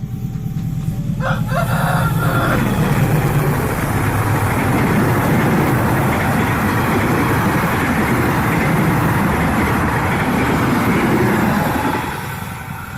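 A diesel-hauled passenger train passing close by: a loud, steady rumble and rail noise that builds over the first second or two, holds, then fades about a second before the end.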